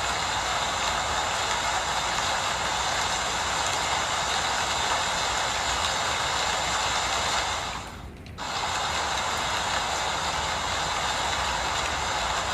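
Steady hiss of falling rain, which cuts out briefly for about half a second near two-thirds of the way through.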